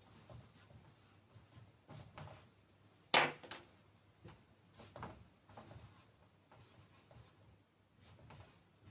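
Scratchy strokes and rubbing of something being written by hand. There is a sharp tap about three seconds in.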